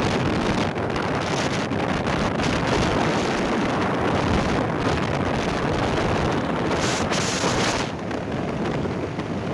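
Wind rushing over the microphone of a moving bike: steady noise that eases slightly about eight seconds in.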